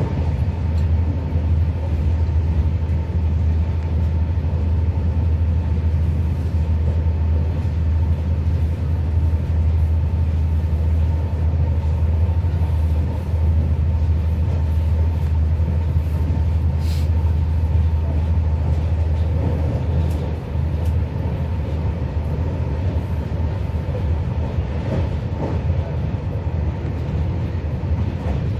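Passenger train running at speed, heard from inside the carriage: a steady low rumble with a faint constant high tone over it.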